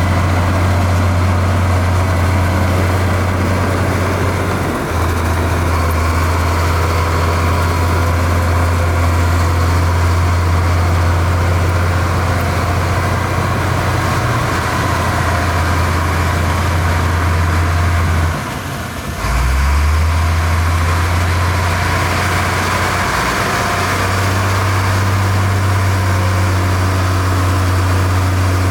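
Heavy diesel engine of construction machinery running with a steady low drone. It shifts abruptly about five seconds in, then drops out briefly about two-thirds of the way through and comes back at a slightly different pitch.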